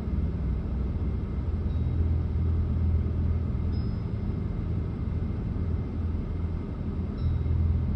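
Steady low rumble of a running car, with no sudden events.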